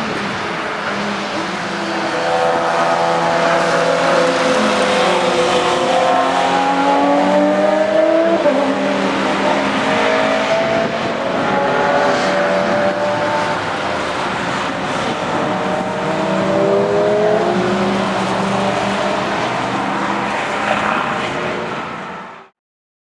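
Several car engines on a race track accelerating hard, their pitch climbing and dropping back again and again with gear changes, with tyre and road noise under them. The sound fades out shortly before the end.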